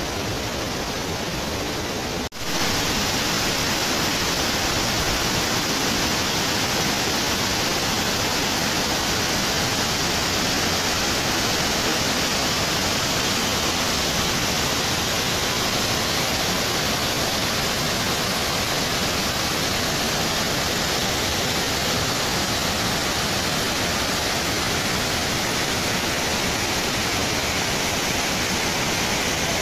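Waterfall rushing: a steady, even roar of falling water. It breaks off for a split second about two seconds in and comes back slightly louder.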